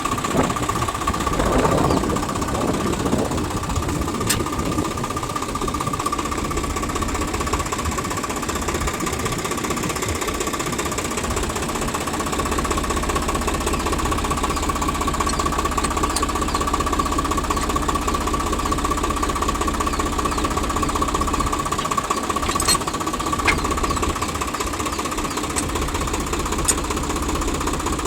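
Diesel engine of heavy earth-moving machinery running steadily with a knocking clatter, with a few sharp clicks.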